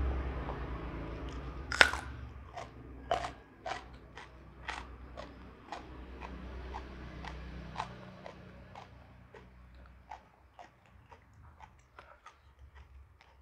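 Close-up crunching bites and chewing of raw jengkol (dogfruit beans): one sharp crunch about two seconds in, then regular chewing crunches about twice a second that grow fainter toward the end. A low hum sits under the first half and fades out.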